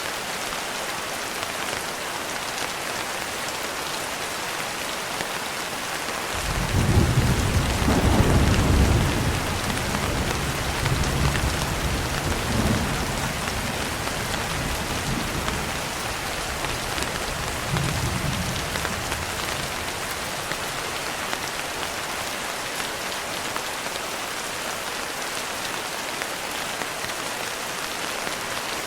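Steady heavy rain. About six seconds in, a deep roll of thunder rumbles up. It is loudest for a couple of seconds, swells again twice, and dies away well before the end.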